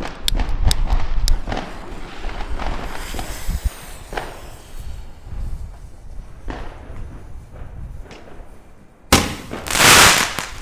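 Firecracker bangs: a quick run of sharp cracks at the start, a few scattered single reports, then a loud bang near the end followed by about a second of loud rushing noise.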